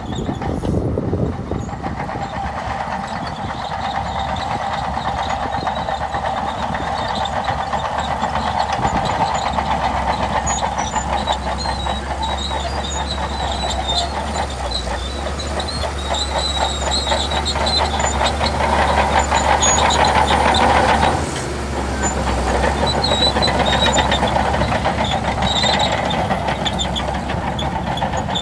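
Diesel engine of a Shantui DH17C2 bulldozer working under load, with a steady rapid clatter over the engine. The sound builds, drops off sharply about three quarters of the way through, then picks back up.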